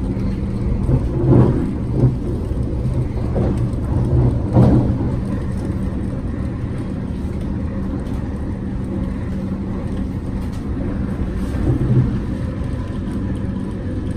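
Inside a moving MTR West Rail Line train: the steady low rumble of the train running at speed on the track, with a steady hum underneath and a few brief louder bumps.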